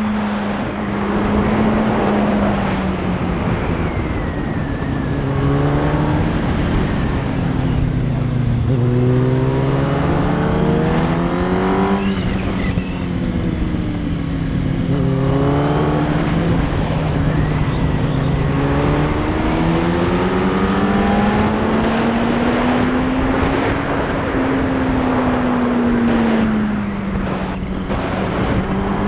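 Yamaha R1 inline-four sport-bike engine under way, heard from the rider's seat, its pitch rising and falling repeatedly as the revs climb and drop, with a steady rush of noise underneath.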